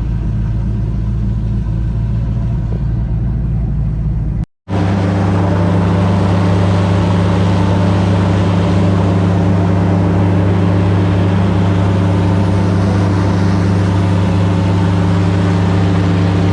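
Airboat engine and propeller running at speed, a loud steady drone. It cuts out for a moment about four and a half seconds in and comes back louder.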